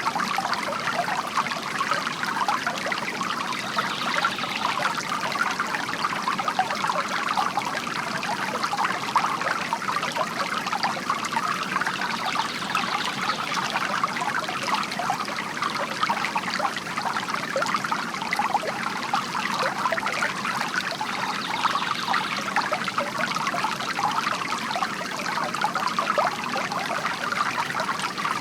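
Bamboo garden fountain: water trickling and splashing steadily from the spout into its basin.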